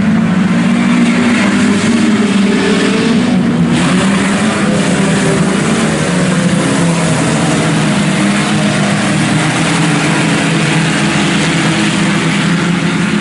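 A field of IMCA Sport Compact race cars running hard together, their four-cylinder engines revving in a loud, continuous mix.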